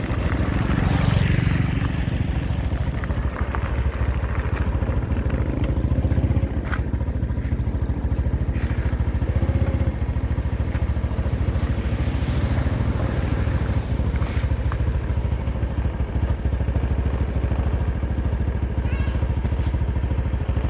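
Heavy road-paving machinery's diesel engine running steadily with an even low throb, swelling a little louder about a second in and again around six seconds in, with a few light clicks over it.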